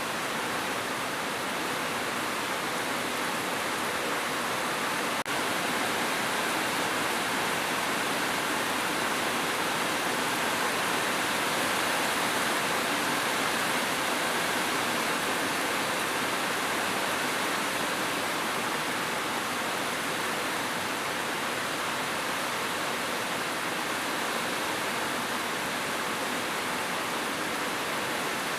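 Steady heavy rainfall, an even hiss with no pauses, with a brief click-like dropout about five seconds in.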